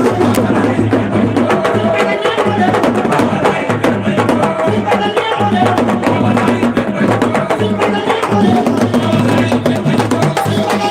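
Loud music driven by fast, busy drumming and clattering percussion, with dense rapid strikes throughout.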